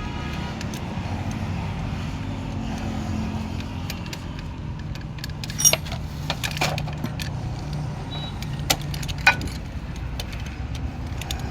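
Metal tools and engine parts clinking a few times during engine work, over a steady low vehicle rumble.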